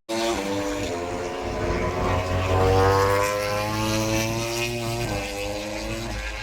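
An engine droning with a steady low hum, its pitch rising slowly for a couple of seconds and then levelling off.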